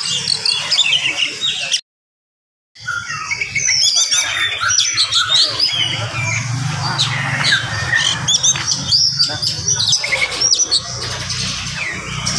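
Oriental magpie-robin singing a fast, dense stream of whistles, chirps and harsh squawking notes. The sound cuts out for about a second near the start, then the song carries on unbroken.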